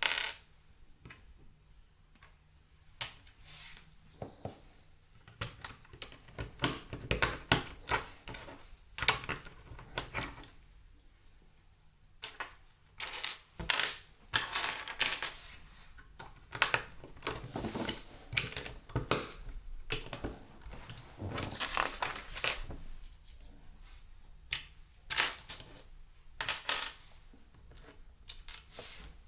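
LEGO pieces being handled and built: loose plastic parts clattering and rattling in irregular bursts, with sharp clicks as pieces are picked up and pressed together.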